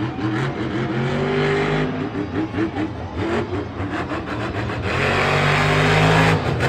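Monster truck engine revving hard, its pitch climbing and falling, with two loud held revs: one about a second in and a longer one from about five seconds until just before the end.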